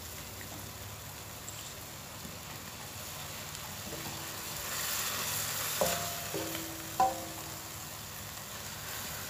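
Ground chili spice paste sizzling in hot oil in a stainless steel wok while a spatula stirs and scrapes it around the pan. Two sharper knocks of the spatula on the wok stand out in the second half.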